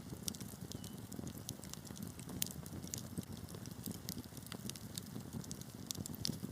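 Wood fire burning in a fireplace: a steady low rumble of flames with frequent irregular crackles and sharp pops, the loudest pop about two and a half seconds in.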